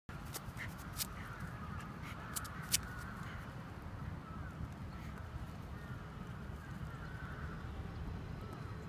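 Birds calling repeatedly over a steady low rumble, with a few sharp clicks in the first three seconds.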